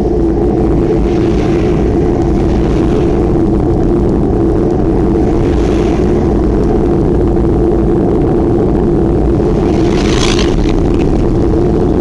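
Steady, loud rumble of wind on the microphone during a bicycle ride, with brief hissing swells now and then, the strongest about ten seconds in.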